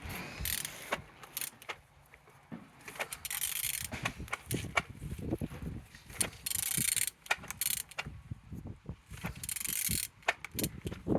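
Used car engine being turned over by hand: irregular mechanical clicks, ratchet-like clatter and short scraping rasps as it is rotated. It turns freely, a sign that it is not seized.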